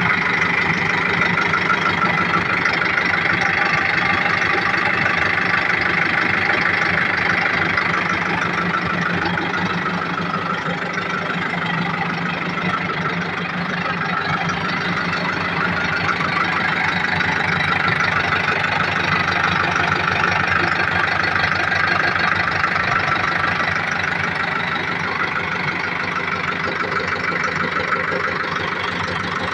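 Escort diesel engine idling steadily with a rapid, even beat.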